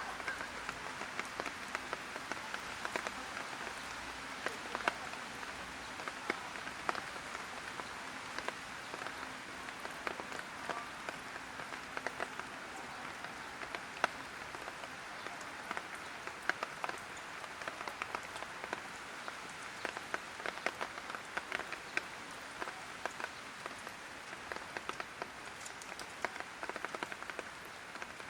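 Light rain falling: a steady hiss with frequent sharp drops tapping on a hard surface.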